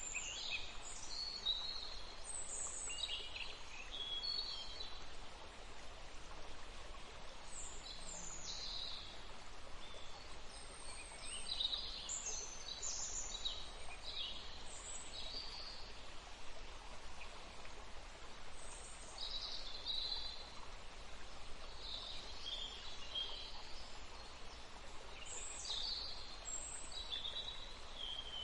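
Steady rush of flowing water with many birds chirping over it, short calls coming in clusters throughout.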